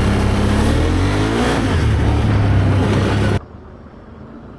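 ATV engine running under throttle, its pitch rising as it accelerates about a second and a half in. It cuts off abruptly about three and a half seconds in, leaving a much quieter engine hum.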